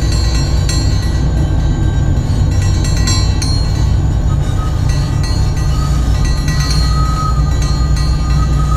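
Freight train locomotive running, heard from the cab as a steady low rumble. A thin high tone comes in about halfway through and holds.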